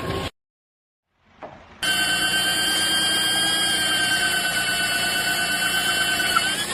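A steady high-pitched whine with a slightly wavering pitch, starting about two seconds in after a brief silence.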